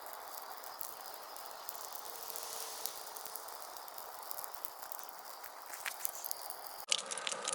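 Bonfire of old wooden fence posts burning as it catches: a steady hiss with frequent small crackles and pops. The sound changes abruptly near the end at an edit.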